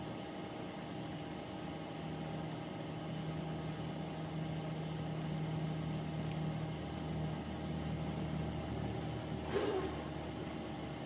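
Soldering gun humming steadily while its tip heats and solder is applied, the hum swelling for several seconds in the middle; a brief hiss near the end.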